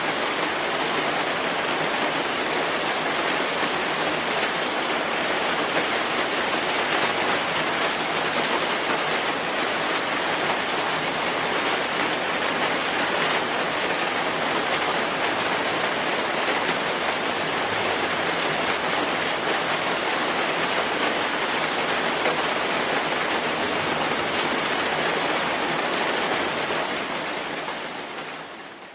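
Steady, dense rainfall, a constant hiss of many drops hitting surfaces. It fades out over the last couple of seconds.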